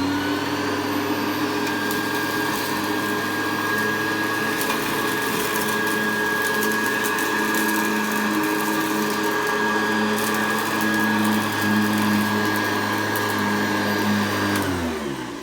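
Hoover Convertible U4315 upright vacuum cleaner (1982) running steadily with a motor hum while vacuuming a carpet. Near the end it is switched off and winds down, its pitch falling as the motor slows.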